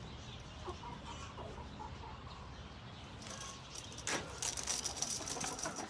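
Silkie chickens clucking softly, then, about halfway through, a run of light metallic rattling and clicks.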